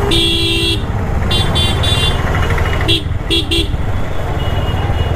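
Vehicle horns honking in short blasts, several toots in a row, over the steady low rumble of a motorcycle engine and road traffic.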